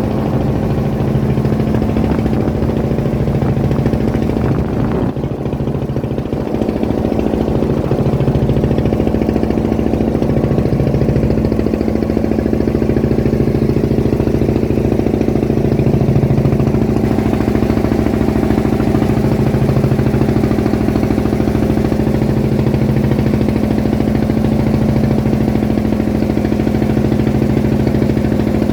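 A fishing boat's engine running steadily, with a slow swell and fade every couple of seconds.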